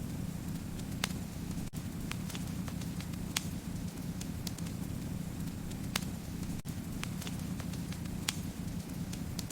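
Wood fire burning in a fireplace: a steady low rumble of flames with sharp crackles and pops scattered irregularly, a few louder pops standing out every couple of seconds.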